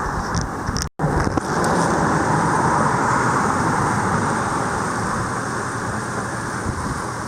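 Fast-flowing, storm-swollen river rushing past in a steady, loud wash of water noise, cut off for an instant about a second in.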